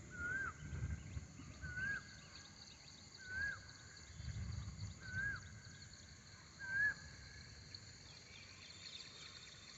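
An animal's short chirping call, a rising-then-falling note repeated five times about every one and a half seconds, over a steady high-pitched insect drone. Faint low rumbles sound underneath.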